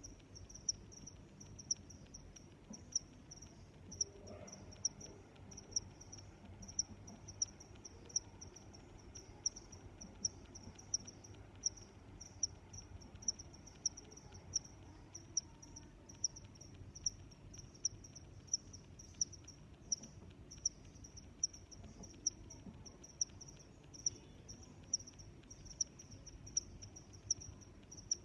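Crickets chirping: a steady, high-pitched pulsing, with a louder chirp about once a second.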